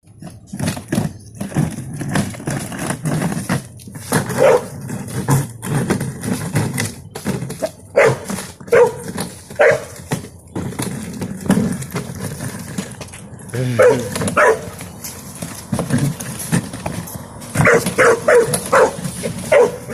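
A dog barking repeatedly, in clusters of a few barks with pauses between.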